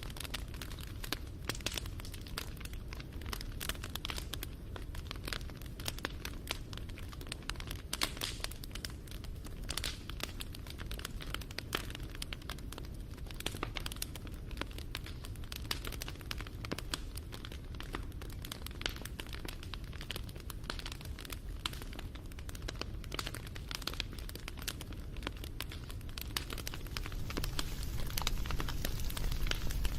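Campfire crackling: dense small pops and snaps over a low rumble of burning, growing louder near the end.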